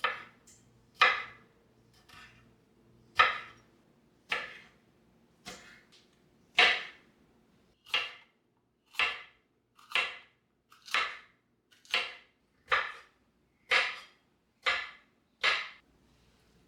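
A series of about fifteen sharp knocks, roughly one a second, irregular at first and then more even and slightly quicker in the second half.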